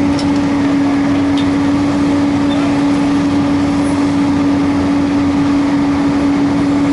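Heavy diesel engine of a large digger loading a dump truck, running steadily at constant speed with a strong, even hum and a couple of faint clinks near the start.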